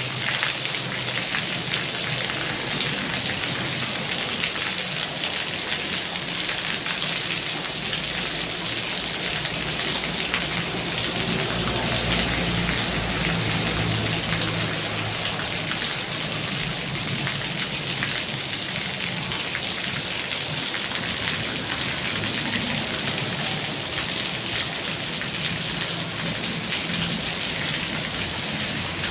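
Heavy rain falling steadily, a dense hiss of drops on surfaces, with a low rumble swelling and fading about halfway through.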